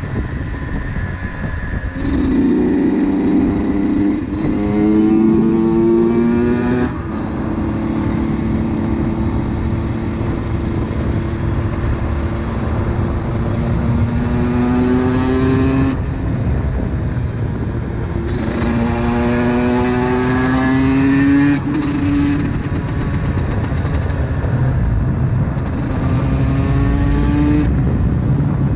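Honda CR125's 125 cc two-stroke single-cylinder engine under way, pulling hard with its pitch climbing steadily, then dropping sharply and climbing again several times as the rider changes gear and rolls the throttle on and off.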